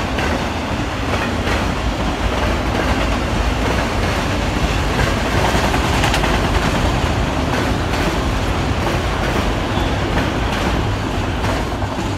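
A freight train of enclosed autorack cars rolls past at speed, a steady rumble of steel wheels on the rails with a run of faint clicks. The tail of the train passes near the end.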